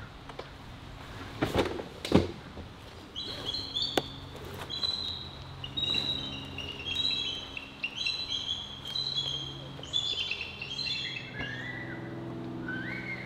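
Two sharp knocks, about a second and a half and two seconds in. Then birds chirping in quick, repeated high phrases, over a steady low hum.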